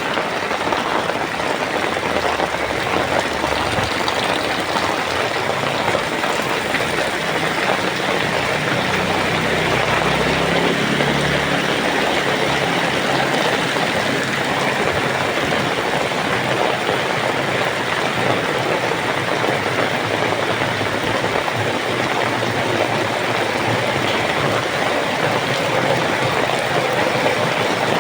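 Heavy rain falling in a steady, dense hiss, with a low rumble swelling briefly near the middle.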